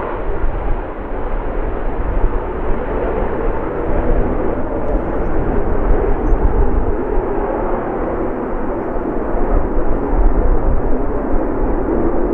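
Military jet engines at high power as the jet departs: loud, steady jet noise.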